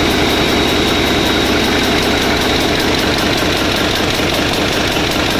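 Generator engine running steadily at constant speed, with an even rapid pulsing and a thin high whine over it.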